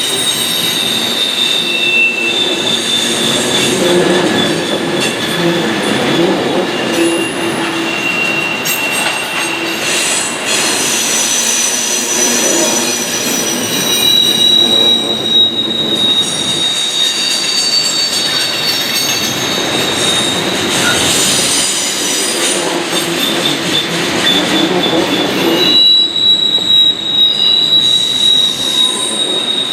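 Freight train cars rolling past, with high-pitched steel wheel flange squeals that come and go over a steady rumble of the train running.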